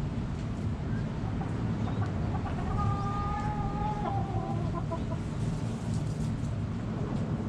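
Backyard chickens clucking, with one drawn-out call running for about two seconds near the middle, over a steady low rumble.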